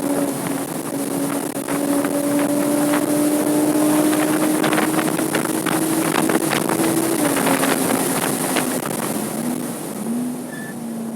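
A Porsche Cayman S's 3.4-litre flat-six at high revs on track. Its note drops slightly at the start, then climbs slowly as the car pulls hard. About two-thirds of the way through it falls away as the driver lifts off, with two short rev blips near the end. Sharp ticks sound around the middle, and there is wind noise throughout.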